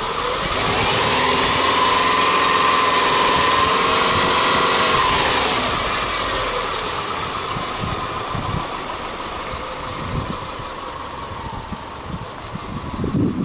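Subaru Legacy B4 2.0i's flat-four boxer engine being revved in neutral. The revs rise and are held for about four seconds, then fall back to a steady idle.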